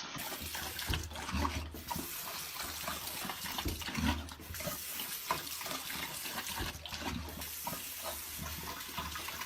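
Running water splashing steadily, like a tap running into a sink.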